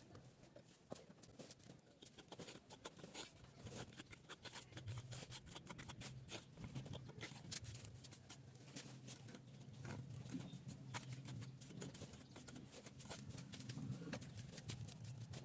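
Faint, irregular clicking and scraping over a low hum that grows louder about five seconds in.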